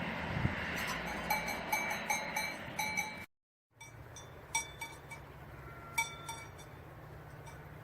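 A small bell clinking again and again in irregular strikes, each with the same ringing pitch, over a low steady hum. The sound drops out completely for half a second just past three seconds in, then the clinking goes on more softly.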